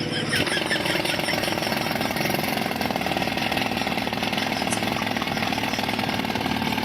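A heavy machine's engine running steadily under a fast, even rattling.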